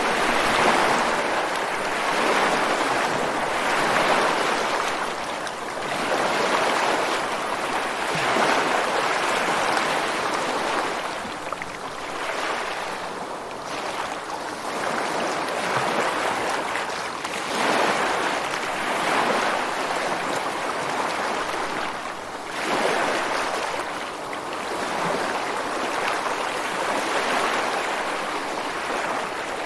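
Ocean surf breaking and washing onto a rocky shore in a continuous hiss that swells and eases with each wave, every few seconds.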